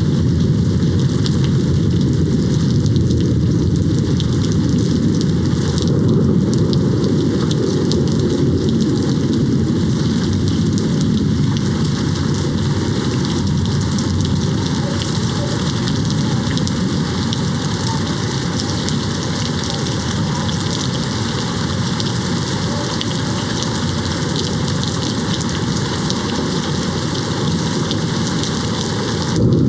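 Steady rain hitting a window, an even hiss of drops, with a low rumble of distant thunder underneath that is heavier in the first several seconds.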